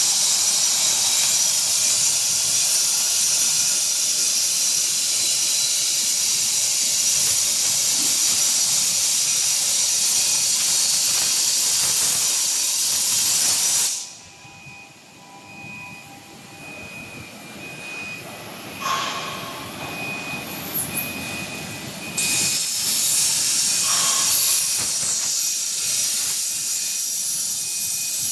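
Hypertherm XPR300 plasma torch cutting steel plate: a loud, steady high-pitched hiss that cuts off suddenly about halfway through as the arc goes out. Quieter machine noise with a faint on-off high tone follows, then the hiss builds back up in the last few seconds.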